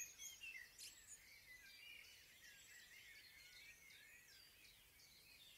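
Faint birdsong: small birds twittering in quick, short chirps, over an otherwise near-silent background.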